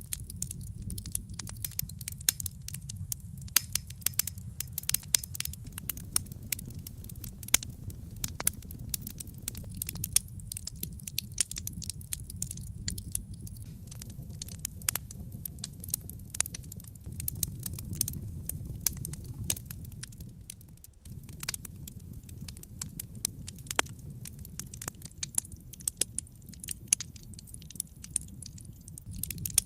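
Wood fire burning in a fireplace: frequent sharp crackles and pops of the burning logs over a steady low rumble of the flames.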